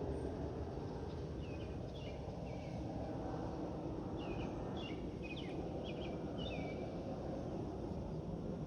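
A bird chirping: a series of short, quick downward-sliding calls, clustered from about a second and a half in to about seven seconds. Under it runs a steady low rumble of outdoor background noise.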